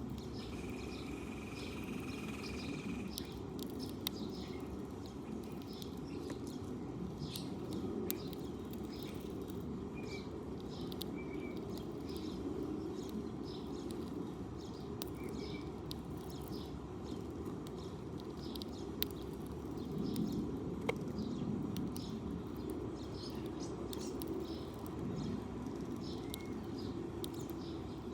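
Sparrows chirping: many short, high chirps scattered throughout, over a steady low background rumble.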